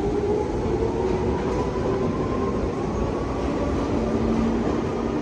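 Train running and picking up speed: a whine rising steadily in pitch over a steady low rumble.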